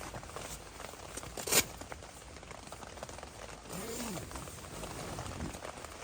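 Rain pattering steadily, with one sharp knock about a second and a half in and a brief low tone that rises and falls about four seconds in.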